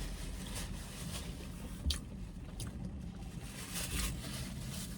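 Faint handling noises: a single sharp click about two seconds in and a little light rustling near four seconds.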